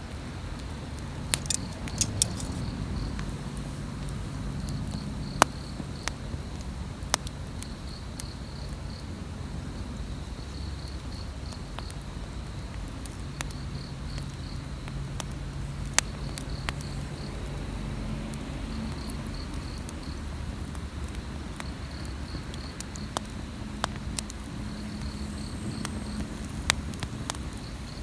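Wood campfire crackling, with scattered sharp pops. Underneath it, an insect chirps steadily in short high-pitched trills every couple of seconds.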